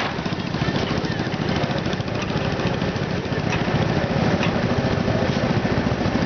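Garden tractor engine running steadily, its rapid firing pulses loud throughout and growing a little louder partway through.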